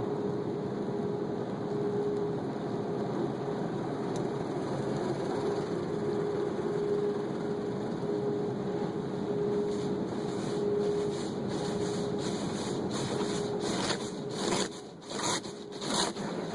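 Automatic car wash running with a steady mechanical hum. From about ten seconds in, a quick series of short rushing swishes.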